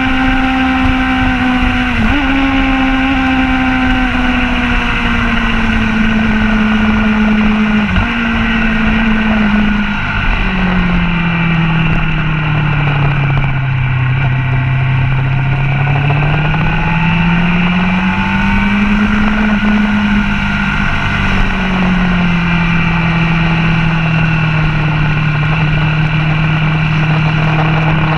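Motorcycle engine on a racetrack lap heard from the bike itself, its note falling slowly and rising again as the rider brakes and drives out of a corner, with short clicks and small steps in pitch about 2 and 8 seconds in, over a steady rush of wind and road noise.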